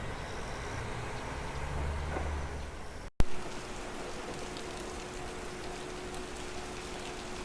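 A diesel railcar's low rumble swells briefly and fades. About three seconds in, a sharp cut gives way to a steady, even hiss with faint ticks and a thin steady hum.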